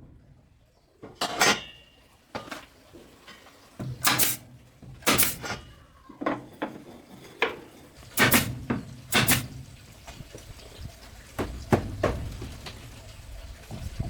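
Irregular sharp knocks and clatters, one every second or so, like tools or hard objects striking.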